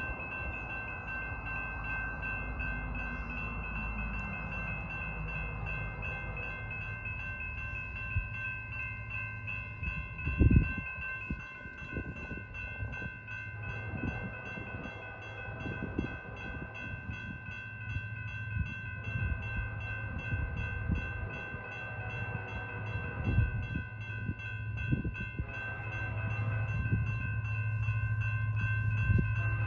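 Freight train passing, with heavy irregular clanks and thumps of wheels rolling over the track. A steady high ringing tone runs underneath. A diesel locomotive's low hum grows louder near the end.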